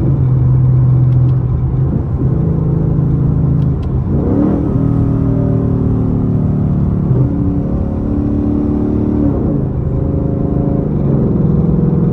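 Ford Mustang GT's V8 engine heard from inside the cabin, running under way; its pitch steps up and down several times, with a rising rev about four seconds in.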